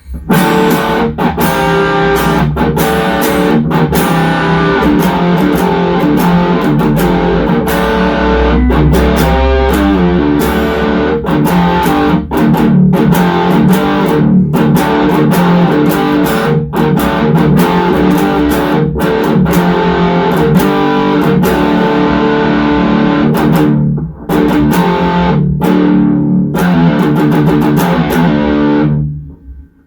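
Electric guitar played through an MXR Super Badass Distortion pedal: a distorted riff of chords with short breaks between strokes, stopping about a second before the end.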